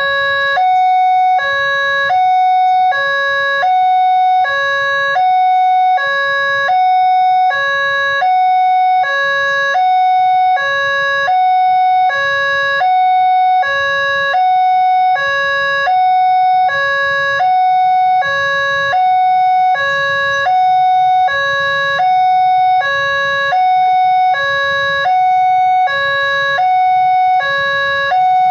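Railway level-crossing warning alarm: an electronic signal switching evenly back and forth between a lower and a higher tone about twice a second, the warning that a train is approaching the crossing.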